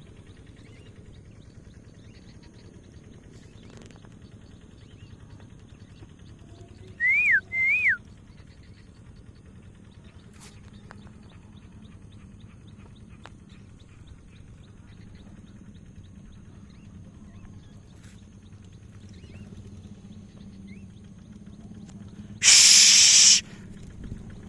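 Two short, loud whistled notes about seven seconds in, each rising and then falling in pitch, over a low steady background rumble. Near the end, a loud hissing rush lasts about a second.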